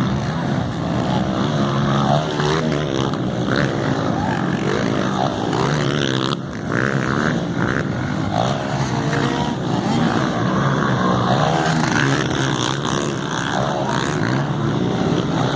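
Several motocross bikes racing, their engines revving up and dropping back again and again as they go round the track, with the pitch rising and falling and overlapping between machines.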